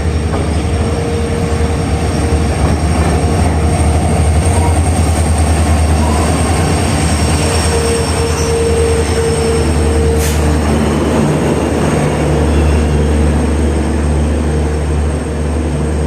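EMD two-stroke diesel locomotive engine running, a loud steady low drone with a steady higher whine on top, and one sharp knock about ten seconds in.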